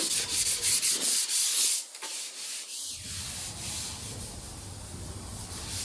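Sanding body filler by hand: quick, rhythmic scratchy strokes of sandpaper over the hardened filler, about six a second, which stop about two seconds in and give way to a fainter rubbing hiss.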